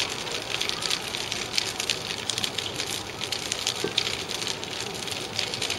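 Bonfire crackling, with dense small sharp pops several times a second.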